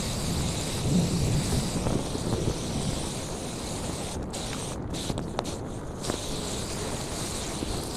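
Water spraying from a garden hose as a steady hiss, its higher part dropping out briefly several times around the middle.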